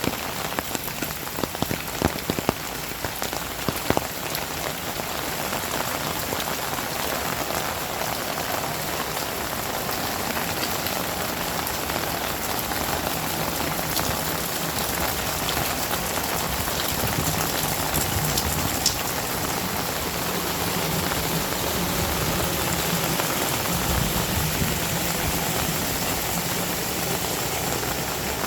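Heavy rain falling steadily, a dense even hiss, with a few sharp close drop strikes in the first few seconds. A low hum comes in near the end.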